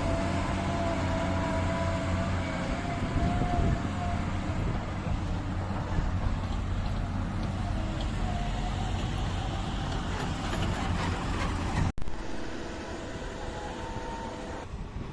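Diesel engine of a JCB earth-moving machine running steadily, with a wavering whine over it. About twelve seconds in, the sound breaks off abruptly and returns a little quieter.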